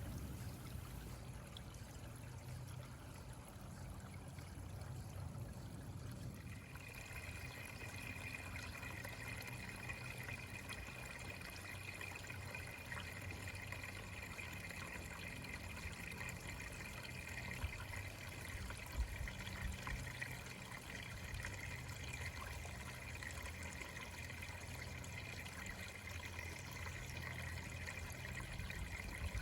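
Faint, steady trickle of running water, with a higher, steady hiss joining about six seconds in.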